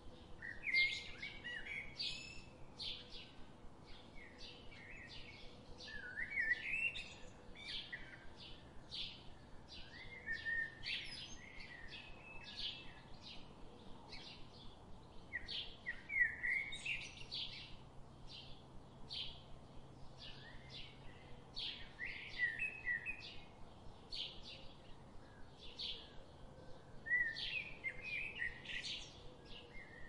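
Songbirds singing: quick high chirps and trills come thick and fast throughout, with a lower warbling phrase returning every five seconds or so.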